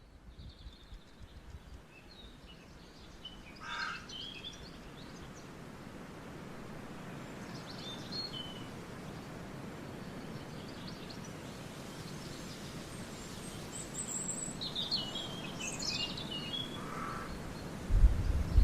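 Outdoor ambience: a steady rushing hiss that slowly grows louder, with small birds giving short high chirps in a few scattered clusters. A low rumble starts near the end.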